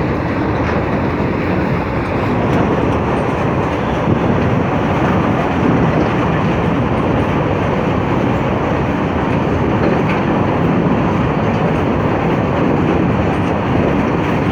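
Train running at high speed: a loud, steady rumble and rush of wheels on rails with no letup.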